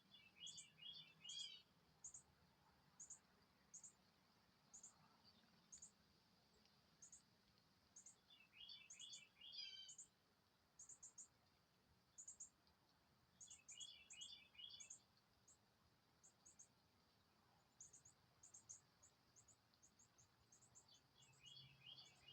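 Faint songbirds: a steady series of short, very high thin chip notes, with a brief trilled song phrase repeated every several seconds, four times in all.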